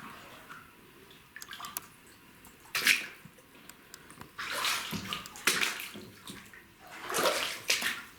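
Footsteps wading through shallow water in a flooded cellar: about four sloshing splashes spaced a second or two apart.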